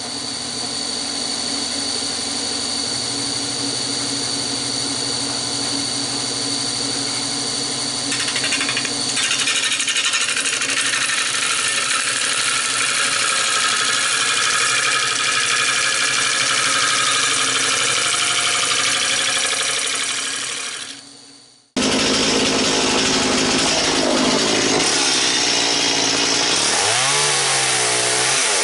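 Wood lathe spinning a redbud blank while a gouge cuts it: a steady motor hum under the hiss and rasp of the tool taking shavings. The cutting grows fuller about nine seconds in, fades away about twenty seconds in, then starts again abruptly.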